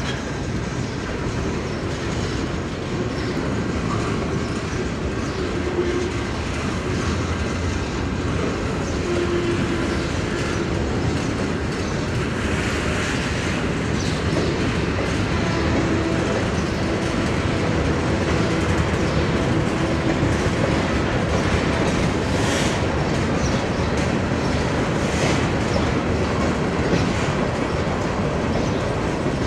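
Freight train's tank cars and hopper cars rolling past close by: a steady rumble of steel wheels on rail, with clickety-clack as the wheels cross rail joints.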